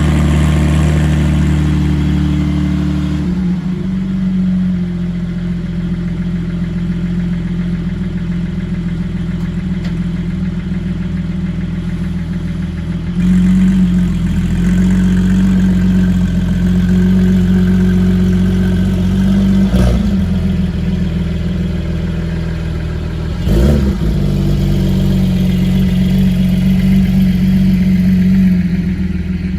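Porsche 718 Spyder's 4.0-litre flat-six running through a Kline Innovation exhaust, holding a steady engine speed. It drops in level about 3 seconds in and rises again near the middle, with two short throttle blips in the second half.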